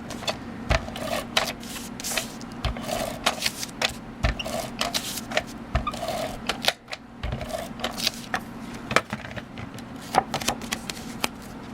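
Irregular small clicks, taps and rustles of cardstock being handled and pressed down onto a card on a work surface, with a few soft thumps.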